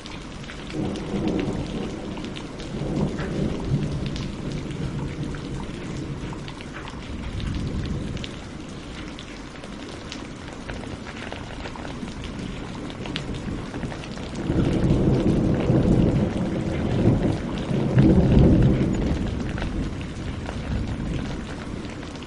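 Steady rain falling, with drops pattering throughout, and thunder rolling twice: a low rumble a second or so in and a longer, louder roll in the second half.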